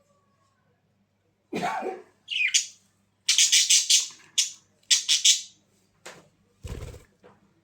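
A bird giving a run of harsh, loud squawking calls, some rising and falling in pitch, followed by a short low thump near the end.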